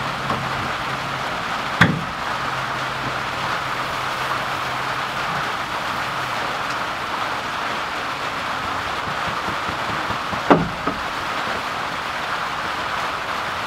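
Steady rain falling on a metal shelter roof, with two sharp knocks, one about two seconds in and one about ten seconds in.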